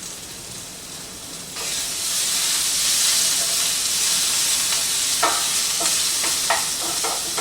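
Onions and bell peppers sizzling as they fry in a pan. The sizzle jumps louder about one and a half seconds in and holds steady, with a few short scrapes of a utensil stirring them in the last couple of seconds.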